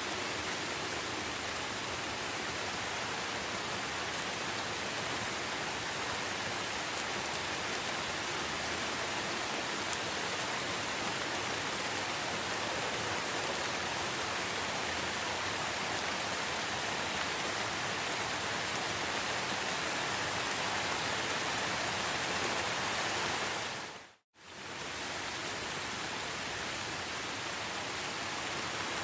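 Steady hiss of rain falling in a rainforest. About 24 seconds in it dips briefly to silence and fades back in.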